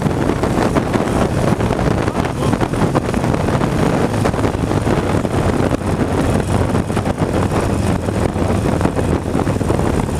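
Motorcycle engine running steadily with wind rushing over a microphone tucked inside the rider's helmet liner, a loud, continuous low rumble.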